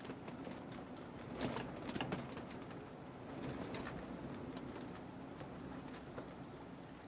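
A faint, low bird cooing, with a few soft clicks.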